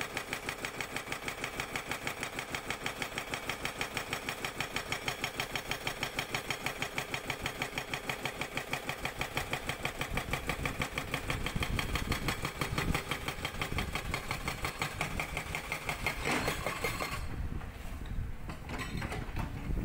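Sangdo SD220 hydraulic breaker on a Cat 320D excavator hammering rock in a rapid, even rhythm of several blows a second over the excavator's diesel engine. The hammering stops near the end, leaving a low rumble.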